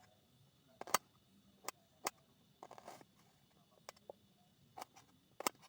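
Scattered light clicks and knocks at irregular spacing, with a short rustle about three seconds in, over a faint steady high hum.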